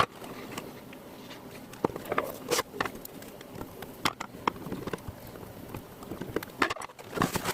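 Irregular light clicks and knocks from handling a Panasonic NV-P05 video cassette recorder and its parts.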